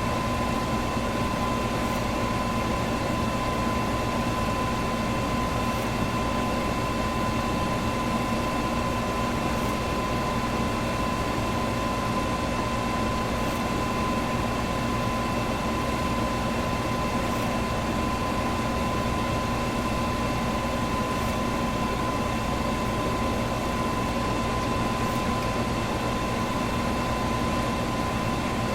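Electric box fan running steadily: an even rush of moving air over a constant motor hum with a thin, steady whine. A faint tick sounds about every four seconds.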